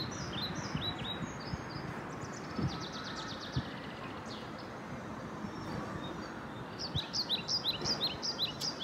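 Small birds chirping over a steady outdoor background hiss. There are quick falling chirps at first, a rapid run of repeated notes a few seconds in, and a busy burst of chirping near the end.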